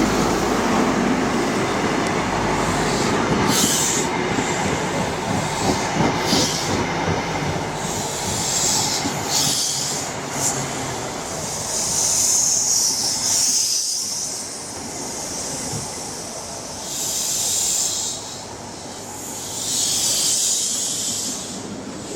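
An LNER High Speed Train (InterCity 125) runs into the station with a steady rumble of wheels on rail. From about the middle onward, high-pitched wheel and brake squeals come in several separate spells as the train slows and the rumble dies down.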